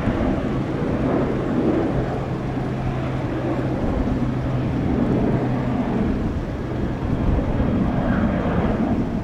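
Jet airliner engines running, a steady rumble with a low, even hum.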